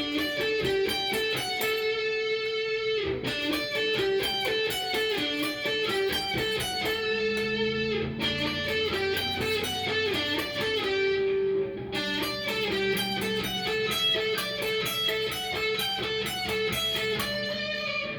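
Cort S-series electric guitar played through a Fender amp: a quick run of picked single notes, with lower notes joining about eight seconds in.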